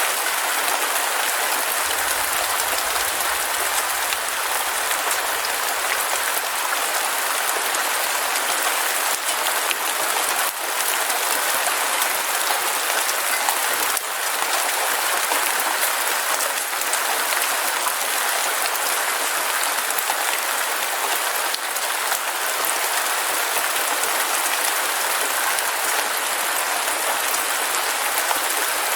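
Heavy rain falling steadily, a dense, even hiss of countless drops with no breaks.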